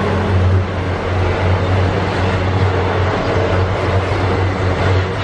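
Double-stack container train's loaded well cars rolling past, steel wheels on the rails making a steady, loud low rumble.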